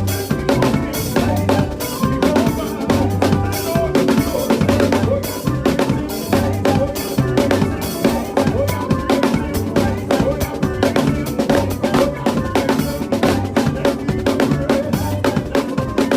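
Drum kit played to a makossa praise medley: fast, busy strokes on snare, bass drum and rimshots, over a backing track with bass and keyboard lines.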